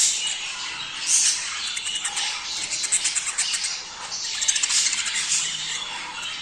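A flock of budgerigars chattering and warbling continuously, many birds' calls overlapping: the excited chatter of budgies in breeding condition.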